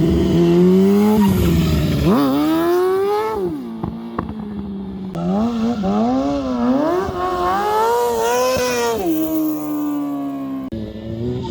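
Motorcycle engine revving hard while the bike is drifted, the pitch climbing and falling every second or so as the throttle is worked, with a few sharp clicks about four seconds in.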